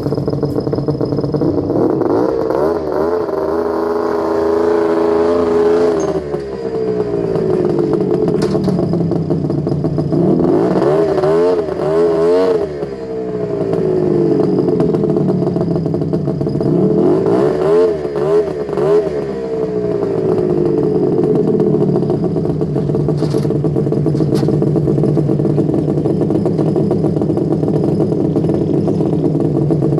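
Snowmobile engine running, revved up three times with the pitch rising and falling between steadier running, as the machine is driven onto a ramp.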